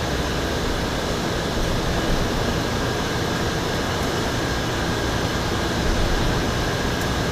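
Steady rushing background noise with a faint, steady high tone through it, and no distinct knocks or clicks.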